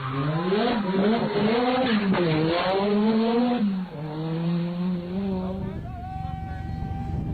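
Rally car engine accelerating hard through the gears: the engine note climbs and drops back at each upshift several times, then holds steadier and fades away about two-thirds of the way in.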